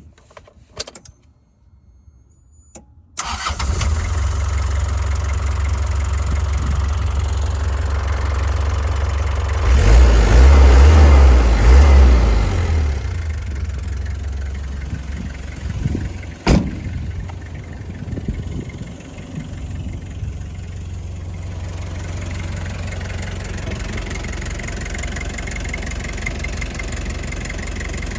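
1996 Toyota HiAce LY151's diesel engine starting about three seconds in and settling into idle. It is revved briefly about ten seconds in, then drops back to a steady idle, with a single sharp clack midway.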